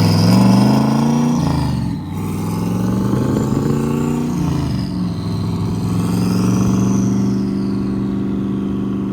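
Car engine accelerating hard from a stop: the pitch climbs, drops at a gear change about two seconds in, climbs again through the next gear, then eases off to a steady cruise for the last few seconds.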